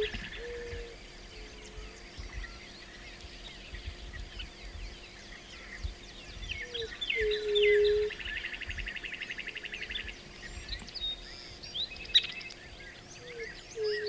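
Birds singing: repeated phrases of quick chirps that run into a fast trill, coming every few seconds, with a lower held whistle-like note alongside and a faint steady background.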